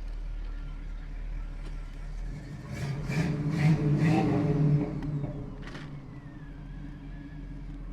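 Oldsmobile 455 Rocket V8 car engine idling, swelling into a louder surge about three to five seconds in, with a few sharp knocks.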